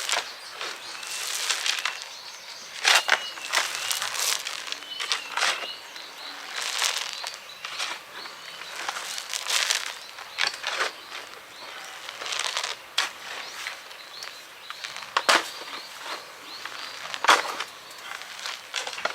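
Shovel scooping and tipping rock: irregular scrapes and clattering knocks every one to two seconds.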